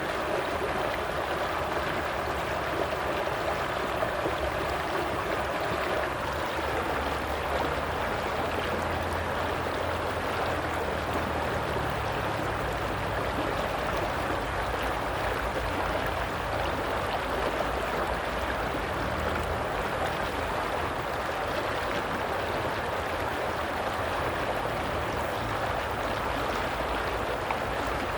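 Running water flowing steadily, an even rush with no change or break.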